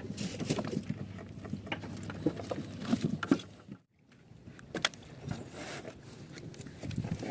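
Handling sounds aboard a small fishing boat: irregular knocks and clatter over a low background of water and wind. The sound drops away briefly about four seconds in.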